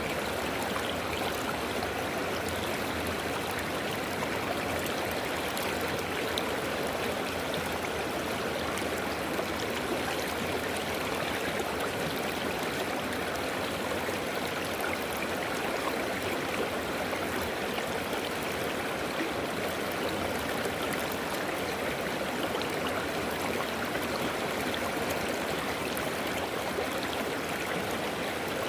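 River water flowing and rushing over stones, a steady, even babble with no change in level.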